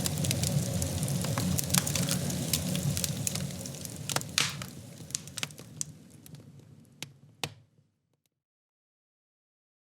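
Wood fire crackling, with irregular sharp pops over a steady hiss, fading away to complete silence about eight seconds in.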